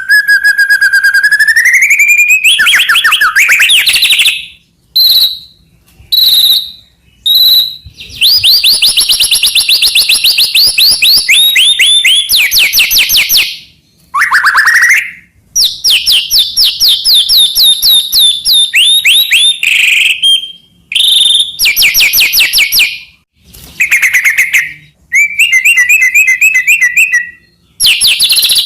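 White-rumped shama (murai batu) in full song: a long string of varied phrases of clear whistles, fast rapidly repeated notes and trills, broken by short pauses.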